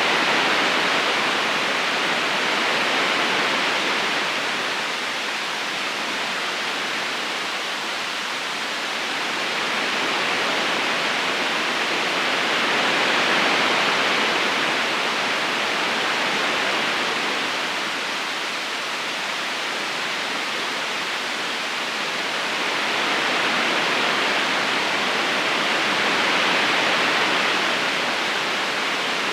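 Steady rushing of a river current flowing over stones, an even wash of water noise that slowly swells and eases every ten seconds or so.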